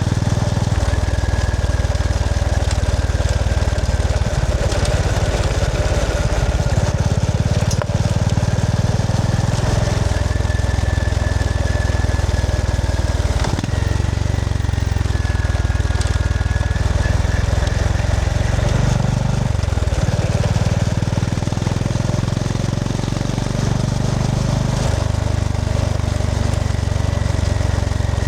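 Honda GB350S's air-cooled 348 cc single-cylinder engine running as the motorcycle is ridden, its low note changing several times as the throttle and gears change.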